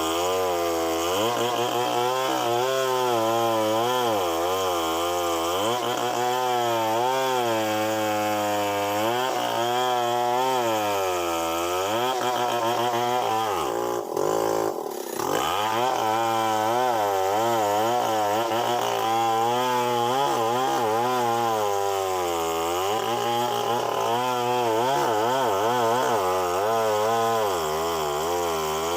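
Chainsaw running while it cuts, its engine pitch rising and falling over and over as the load on the chain changes. There is a brief drop in the sound about halfway through.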